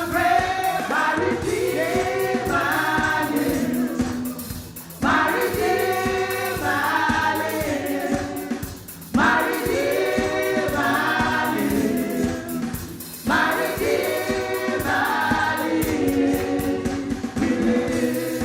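Gospel worship song sung by a group of voices over a sustained instrumental backing, in phrases that restart about every four seconds.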